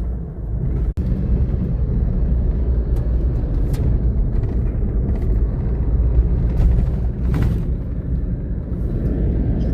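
Road noise heard from inside a car driving on a bumpy road: a steady low rumble with a few faint rattles and knocks.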